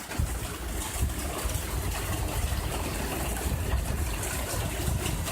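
Steady rain falling, loud enough to drown out a voice, an even hiss with a low rumble underneath.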